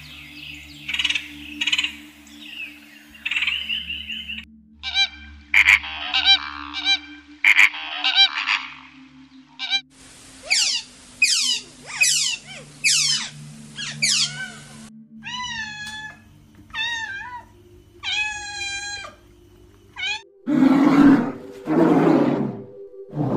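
A woodpecker gives short chattering calls for the first several seconds. Then a sea otter squeals, first in a run of sharp falling shrieks and then in wavering high calls. Brown bears growling, low and loud, take over about twenty seconds in.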